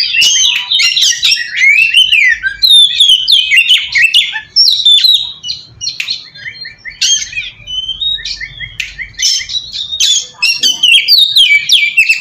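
Oriental magpie-robin (kacer) in full song: a fast, varied stream of clear whistles, trills and quick runs of repeated notes with only brief gaps. It is the loud, rival-provoking song used as a lure to make other magpie-robins answer.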